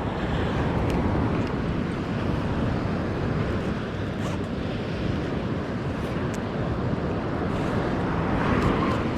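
Steady rush of wind on the microphone mixed with ocean surf, with a few faint ticks.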